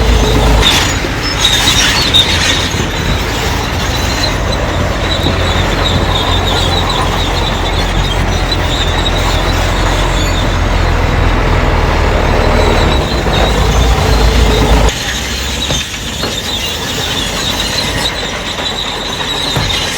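Crawler bulldozer working, its diesel engine rumbling under load while its steel tracks give a high, wavering squeal. The heavy engine rumble drops away sharply about three-quarters of the way through, while the squealing goes on.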